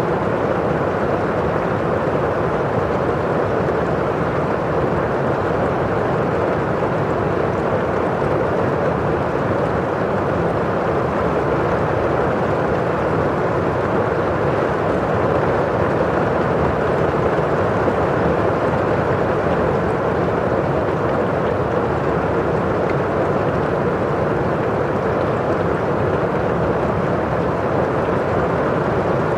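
Steady rain falling against a window pane, an even, muffled rush with no separate drops standing out.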